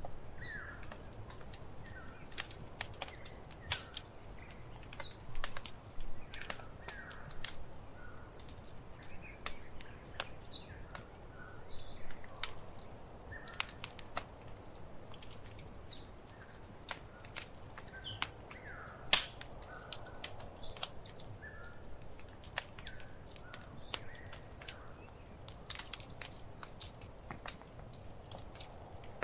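Wood fire in a fireplace crackling: frequent sharp, irregular pops and snaps over a low, steady rumble of burning.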